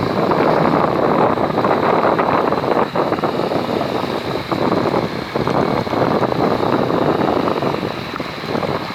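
Steady rushing noise aboard a fishing boat at sea: wind on the microphone mixed with boat and water noise, with a thin steady high whine underneath.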